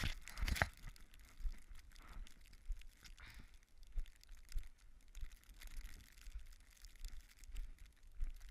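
Running footsteps crunching in snow, an irregular crunch every half second or so, with wind buffeting the microphone as a low rumble.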